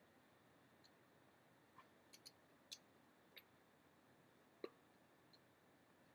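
Near silence with several faint, irregularly spaced clicks and ticks, the strongest about two-thirds of the way in.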